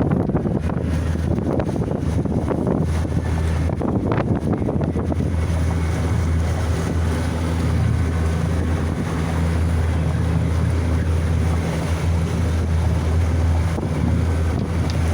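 Wind buffeting the microphone over the steady drone of a 115 hp outboard motor pushing a small boat across the water.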